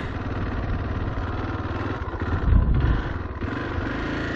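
Dirt bike engine idling with a steady, rapid low pulse, briefly louder about halfway through.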